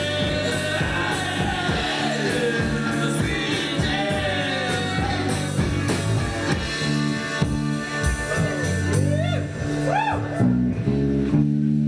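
Rock band playing with a sung lead vocal over guitar, bass and drums; about halfway through, the band settles into long held chords while the voice glides over them.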